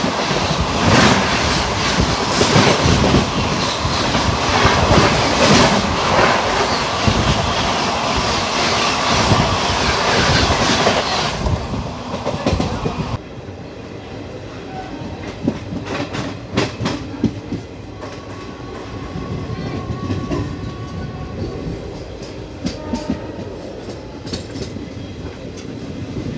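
Express train running through a station at speed, with loud wheel clatter over the rail joints. About 13 seconds in the sound cuts abruptly to a quieter passing train, its wheels clicking over the joints at spaced intervals.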